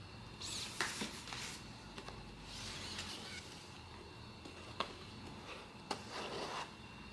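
Blind box packaging being handled and opened by hand: short bursts of rustling and scraping, with a few sharp clicks and taps.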